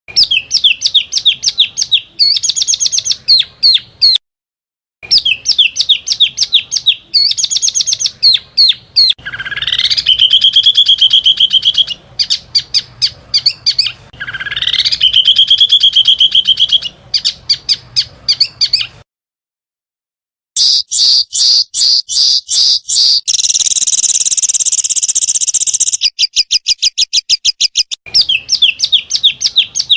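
Small songbirds giving rapid 'tembakan' phrases: fast strings of sharp, repeated high notes, two trills that sweep up in pitch, and a harsh buzzing phrase near the end. The phrases are spliced together with two short gaps of silence, as in a masteran recording edited for teaching competition songbirds.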